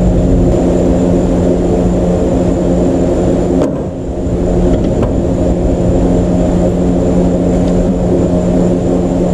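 Steady, loud mechanical hum from a running motor or engine, holding one pitch with a strong low drone. It dips briefly about four seconds in, with a couple of faint clicks.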